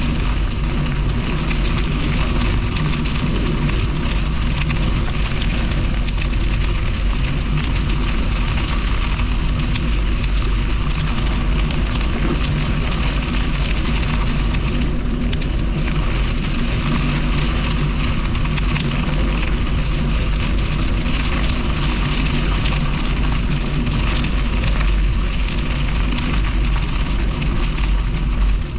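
Wind rushing on the microphone of a camera carried on a moving bicycle, mixed with tyre and path noise from the ride: a steady low rumble under a continuous hiss.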